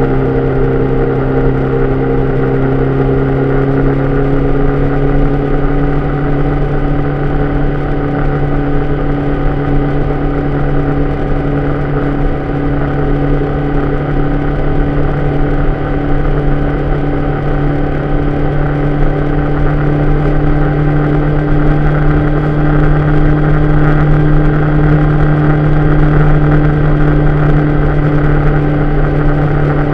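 Vehicle engine running at a steady cruising note, mixed with road and wind noise picked up by a camera on the mirror arm during a drive in the rain; the engine note rises slightly in the second half.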